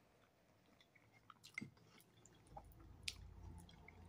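Faint chewing of a mouthful of oatmeal and fruit, with a few soft, short clicks.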